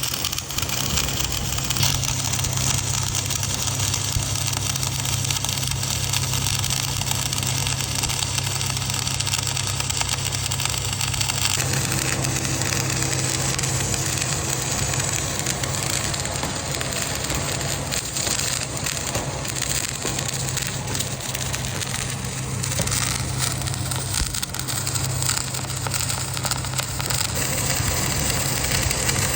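Welding: a steady crackling hiss of the arc over a constant low machine hum, the crackle changing character about twelve seconds in.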